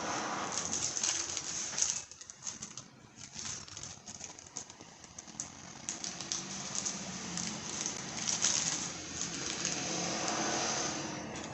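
Plastic packaging crinkling and rustling as a pack of new battery-terminal hardware (bolts, washers and nuts) is opened and handled, pausing briefly about two seconds in.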